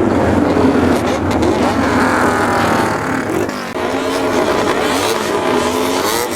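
Several straight-piped motorcycles running and revving together, their overlapping engine notes rising and falling.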